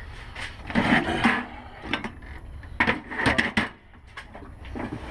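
Two short hissing sprays of aerosol carburettor cleaner, about a second apart, mixed with clicks and clatter of small carburettor parts being handled.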